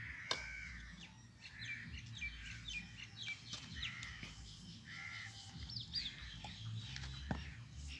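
Birds calling in the background: a run of short, quick chirps and several drawn-out, arching calls, with a few faint clicks.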